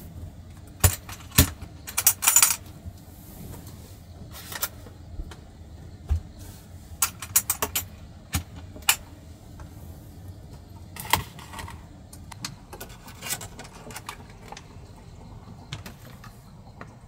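Irregular sharp clicks and clinks of small hard objects being handled, with a dense cluster about a second or two in and scattered ones after, over a steady low rumble.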